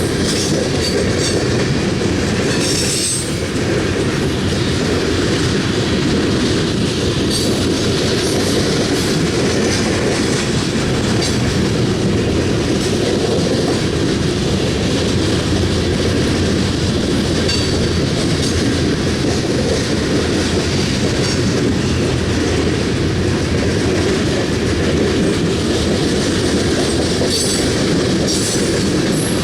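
Loaded coal train's cars rolling by in a steady, heavy rumble, with wheels clicking and brief faint high squeals now and then.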